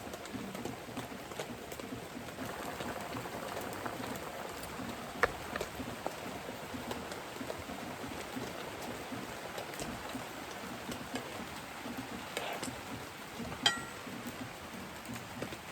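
Steady rain falling, with many small drip ticks. Two sharp clinks stand out, one about five seconds in and a ringing one near the end.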